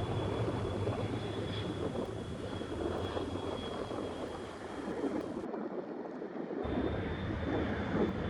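Steady rumble and rush of jet airliner engines, with a faint steady high tone above it. The sound drops away suddenly for about a second after five and a half seconds, then comes back.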